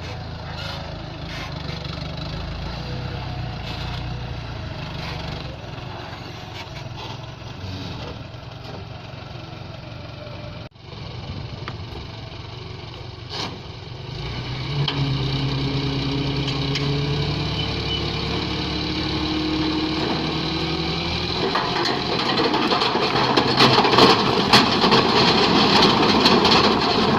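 A dump truck's diesel engine running, then revving up about halfway through and holding high. Near the end a louder, rough rushing noise joins it.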